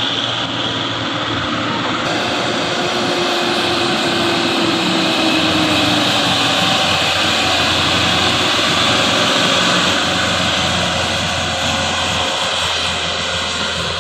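Heavy truck's diesel engine running loudly and steadily with a whine, swelling a little midway and easing near the end.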